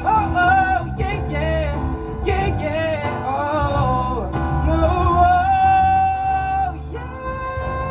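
Live band of acoustic guitar, bass, keyboard and cajon playing, with a male vocalist singing wordless ad-libs over it and holding one long note in the second half.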